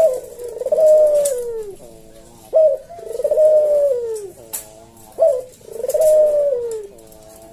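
Puter dove (domestic ringed turtle dove) cooing in a slow rhythm: a short clipped note followed by a long, falling coo, repeated three times about every two and a half seconds.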